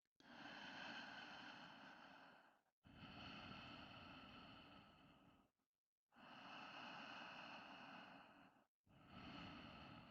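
A person breathing slowly and deeply, faint, in long audible breaths of about two and a half seconds each: four breaths in two pairs, with a short pause in the middle.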